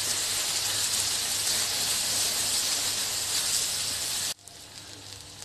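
Spiced onion-tomato masala sizzling in hot oil in an iron kadai, cooked to the stage where the oil has separated from the gravy. The steady sizzle drops suddenly to a much quieter level about four seconds in.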